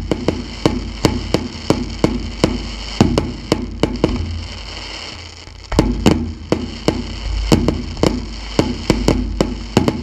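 Fireworks display: a rapid, irregular string of sharp bangs from bursting shells, several a second, easing off in the middle for a second or so and then starting again.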